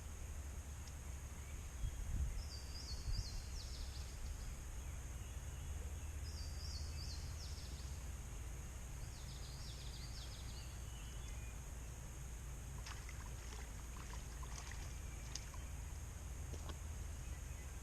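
A bird sings a short, stepped, falling phrase three times, a few seconds apart, over a low steady rumble. Scattered faint clicks and rustles follow in the second half.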